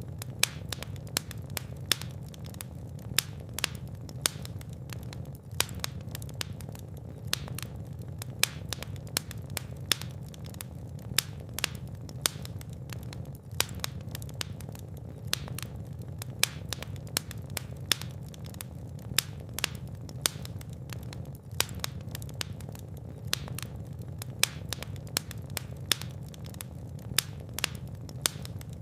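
Fire burning in a fireplace: frequent, irregular sharp crackles and pops over a steady low rumble of the flames.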